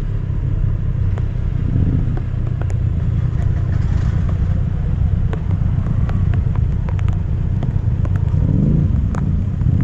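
Triumph Street Triple RS's inline three-cylinder engine running on the move, heard as a steady low rumble, with scattered sharp ticks over it.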